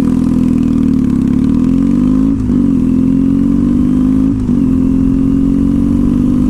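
2014 Triumph Thruxton's 865 cc parallel-twin running loud through a slash-cut exhaust, pulling away and shifting up twice, about two and a half and four and a half seconds in.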